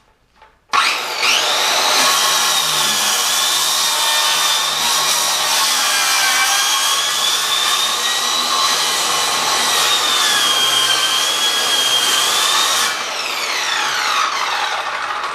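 Power saw, likely a circular saw, starting up and cutting through subfloor wood with a steady high whine that dips a little under load, then switched off and winding down in falling pitch near the end.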